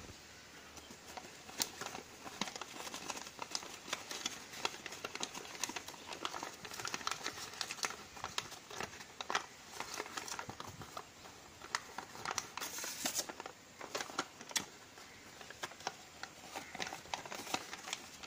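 A sheet of paper being handled and folded: crisp rustling and crinkling with many small sharp creases and taps, a louder stretch about 13 seconds in.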